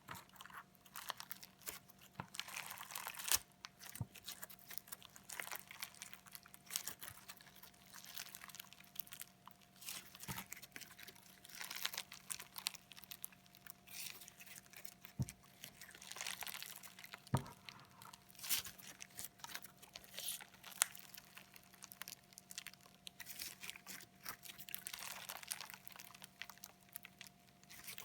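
Slime mixed with sequins being worked with a fork, making a dense, irregular run of crunchy crackles and clicks.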